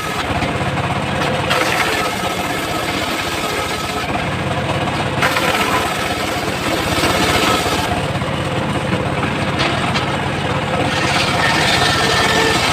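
Homemade engine-driven circular sawmill running steadily while it saws teak, its tone shifting every few seconds as the load changes.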